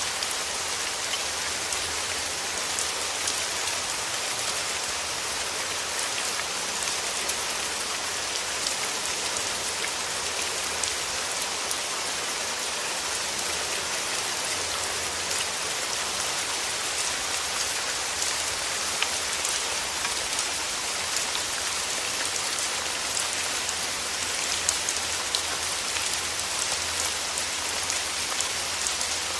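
Steady rain falling, an even hiss dotted with many small, close drop ticks.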